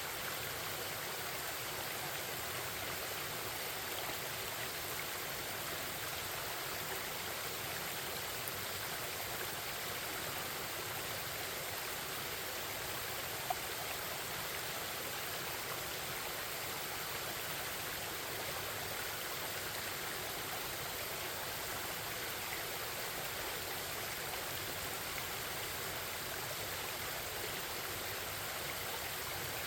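Forest stream babbling over rocks: a steady, even rush of flowing water, with one brief tick about halfway through.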